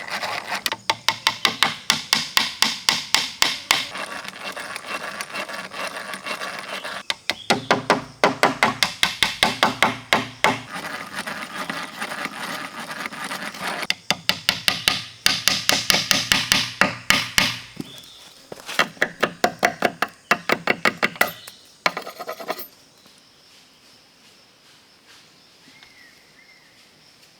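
A tool striking wood in quick, even strokes, about six a second, in four runs of about three seconds each with short pauses between. The striking stops about 22 seconds in.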